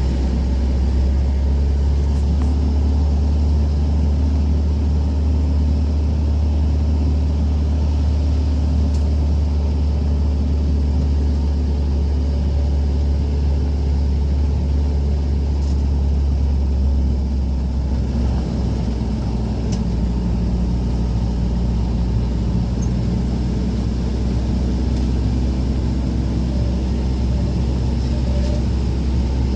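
Steady low drone of a running vehicle engine, as heard from inside a moving vehicle, unchanging throughout.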